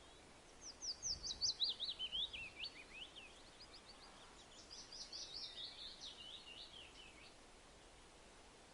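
A songbird singing two phrases, each a fast run of sharp, high notes that drop in pitch as it goes, the second starting about four and a half seconds in; a faint steady hiss lies underneath.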